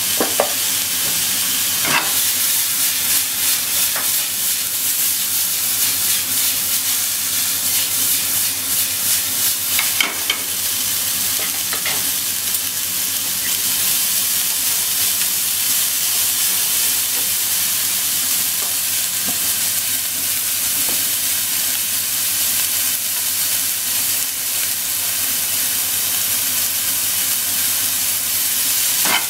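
Corn, onion and meat sizzling steadily in a nonstick frying pan, stirred with wooden cooking chopsticks. A few sharp clicks come as the chopsticks knock the pan.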